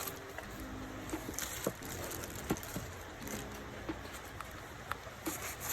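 Rain pattering steadily, with scattered light taps and drips, under faint soft background music.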